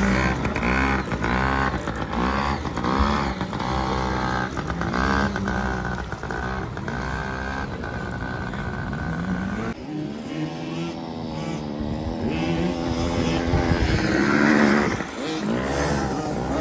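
Yamaha PW50 mini dirt bike's small two-stroke engine revving up and down again and again as it is ridden around the track. About ten seconds in, the sound changes to a lower, wavering engine note.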